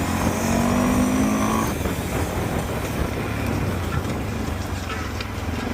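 Kymco quad bike engine accelerating, its pitch rising for the first couple of seconds, then running on steadily under rumbling wind and ground noise.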